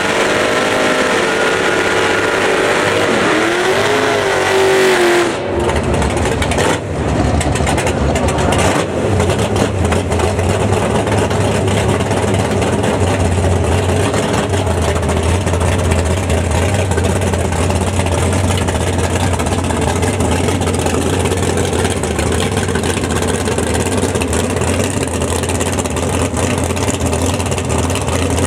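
Car engines running loudly. For the first five seconds one engine's pitch sweeps up and down as it revs, then the sound settles into a dense, steady engine noise with a deep hum.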